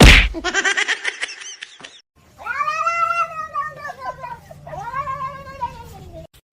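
A cat yowling: two long drawn-out meows, each rising and then falling in pitch, the first about two seconds long. They follow a sharp click at the very start and a quick warbling sound.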